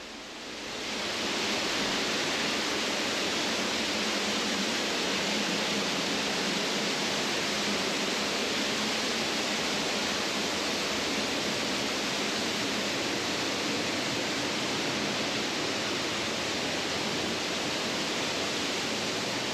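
Steady rush of a large man-made cascading waterfall, fading in over the first second and then holding even.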